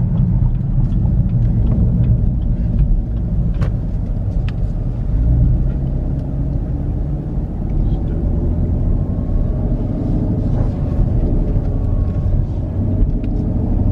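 Car being driven on the road, heard from inside the cabin: a steady low rumble of engine and tyre noise.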